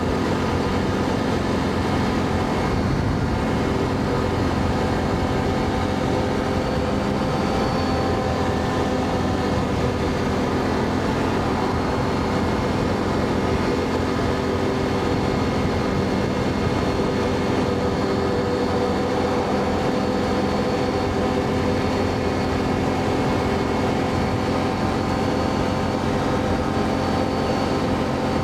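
Can-Am ATV engine running at a steady cruising speed, its pitch holding even throughout, with road and wind noise.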